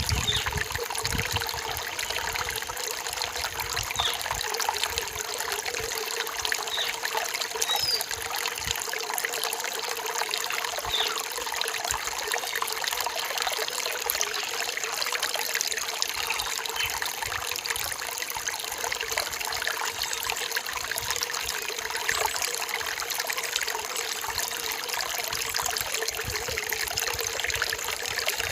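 Forest stream flowing and trickling steadily, with a few faint short high chirps on top.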